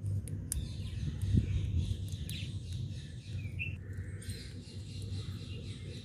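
Birds chirping: scattered short, high chirps and brief squawky calls over a steady low rumble, with a soft low bump about a second and a half in.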